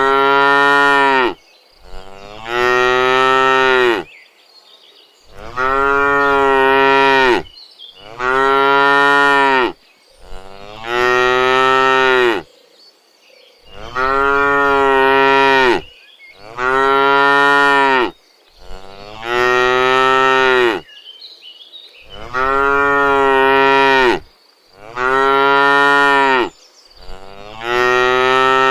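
Cows mooing over and over: about eleven long, steady-pitched moos of around two seconds each, one after another with short pauses between.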